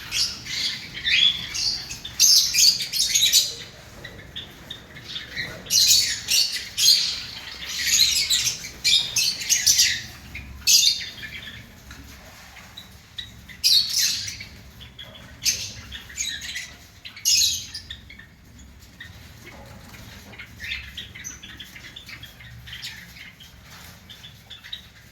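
Java sparrows chirping and calling in bursts of quick high notes, busiest in the first half and fainter after about eighteen seconds.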